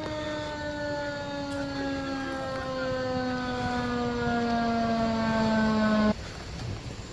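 Emergency vehicle siren in one long wail, its pitch falling slowly while it grows louder, then cutting off abruptly about six seconds in.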